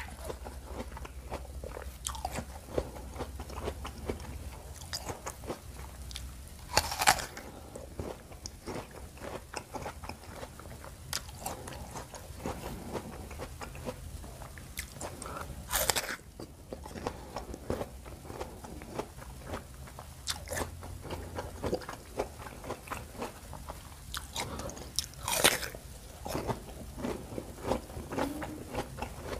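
Chewing and crunching of crisp raw wax apple (jambu air citra) eaten with rujak sauce: a run of small crunches and wet chewing, with three louder bites roughly nine seconds apart.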